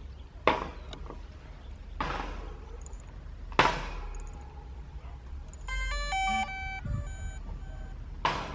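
Three sharp knocks, then about six seconds in a short electronic start-up tune of stepped beeps as the DJI Mavic Pro drone is switched on.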